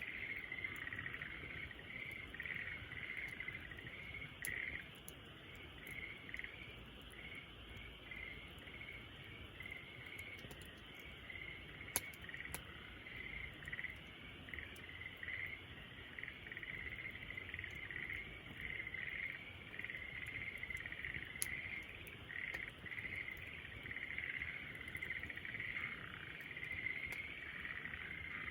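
Steady chorus of high, rapid chirping from calling insects, with a few sharp pops from a crackling campfire, the loudest about twelve seconds in.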